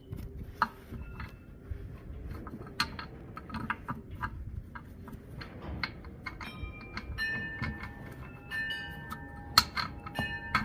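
Light metallic clicks and taps while a new tractor tire valve stem is worked through the rim hole, then from about six seconds in overlapping clear ringing tones at several pitches, like wind chimes.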